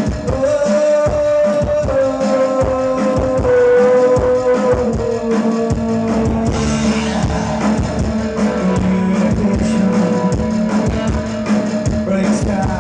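New wave rock band playing live: drum kit, bass, guitar and synthesizer, with a long held lead note that slides slowly down in pitch over several seconds before the band settles on steady chords.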